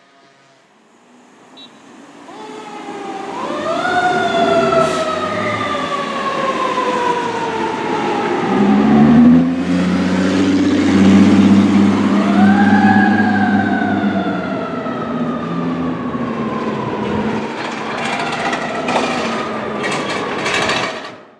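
Fire engine responding: its siren rises quickly and falls away slowly, twice, over the engine's running noise. In between, a deep, steady horn sounds for several seconds and is the loudest part. The sound grows louder as the truck approaches.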